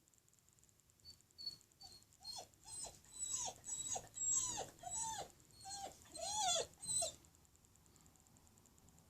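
A dog whining and crying: a string of about a dozen short high whines, each falling in pitch at the end, then stopping. Separation whining, the dog upset at its owner leaving.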